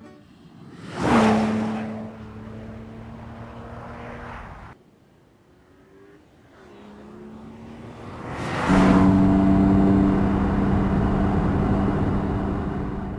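BMW 1 Series coupe's 3-litre straight-six driving past with a whoosh about a second in, its engine note dropping in pitch and then running steady. After a cut, the engine note builds again and holds loud and steady for the last few seconds.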